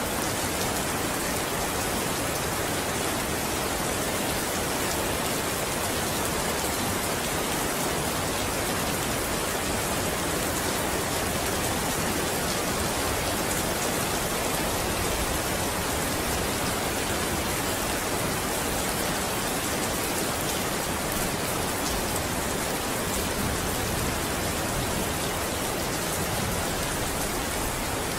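Steady rain falling, an even hiss with no break or rumble of thunder.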